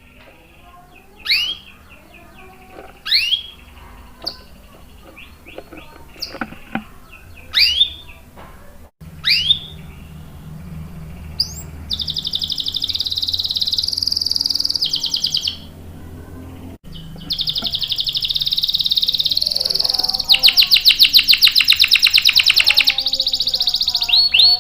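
Domestic canary singing: first a few sharp, quickly rising call notes a second or two apart, then about halfway a long continuous high-pitched song that breaks into a fast rolling trill near the end.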